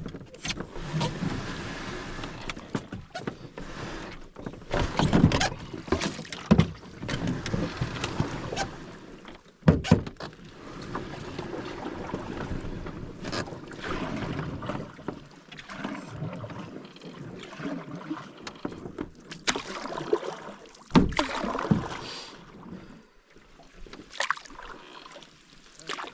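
Canoe being paddled: irregular paddle splashes and gurgles in the water, broken by several sharp knocks.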